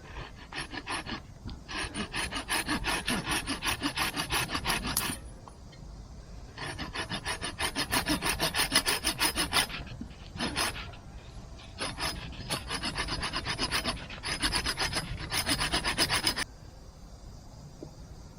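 Quick back-and-forth strokes of a hand tool cutting or rasping wood, several a second, in several runs of a few seconds with short pauses, the last stopping abruptly near the end.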